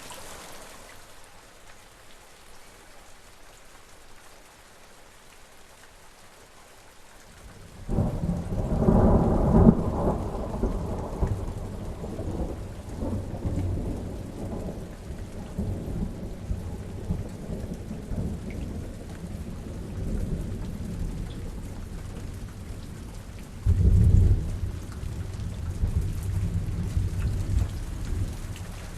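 Steady rain with a thunderstorm. After several seconds of rain alone, a sudden loud clap of thunder breaks about eight seconds in and rolls on, slowly fading under the rain. A second burst of thunder comes near the end.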